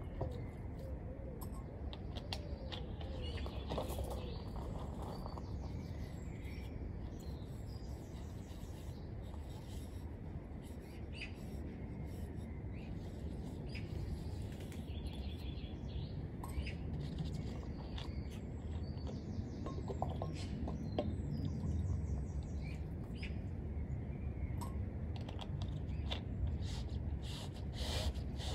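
Birds chirping now and then over a steady low rumble, with scattered short clicks and knocks throughout.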